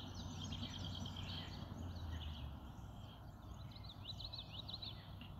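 Small birds chirping: many quick, short notes that rise and fall, some in fast runs, over a faint steady low background hum.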